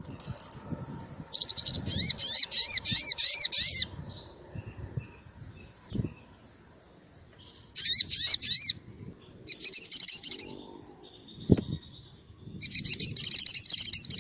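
Sogon sunbird singing: four bursts of fast, high, repeated chirping notes, each lasting about one to three seconds, with short pauses between them. Two sharp clicks fall in the gaps.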